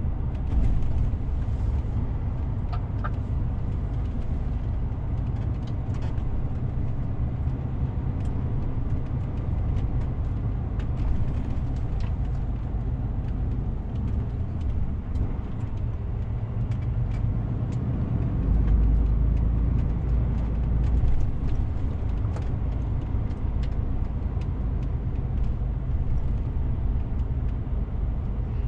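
DAF CF 450 truck on the move: steady engine and road rumble with scattered small rattles. A deeper low rumble swells for a few seconds about two-thirds of the way through.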